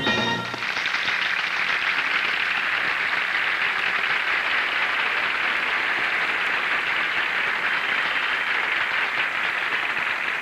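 Audience applause, steady for about ten seconds, following a short bit of music at the start.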